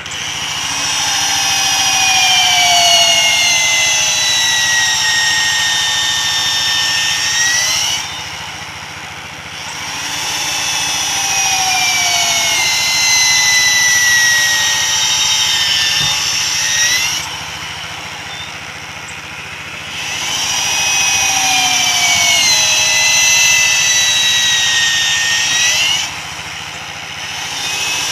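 Handheld electric power tool running in three spells of about seven seconds each, its high whine dropping in pitch as it bites into the wood and rising again as the load comes off, then cutting out. A fourth spell starts at the very end.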